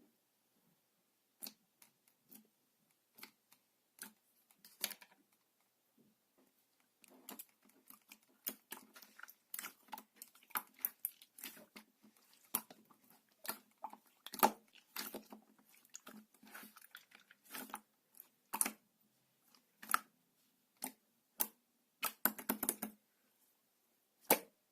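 Slime being pressed, poked and squeezed by hand, giving irregular sticky clicks and small pops. They are sparse at first and come thick and fast from about seven seconds in.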